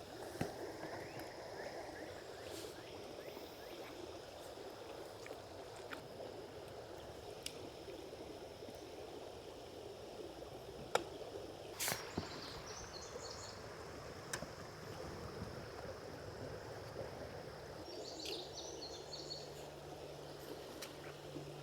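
Creek water running steadily, with short bursts of bird chirping twice and a few scattered clicks.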